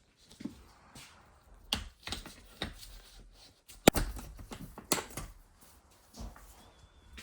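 Workshop handling sounds: scattered clicks and knocks of tools and parts being moved and set down, with one sharp knock about four seconds in, the loudest of them.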